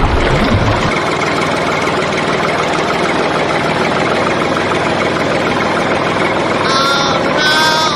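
A mini tractor's engine running steadily at idle. Short high chirps come twice near the end.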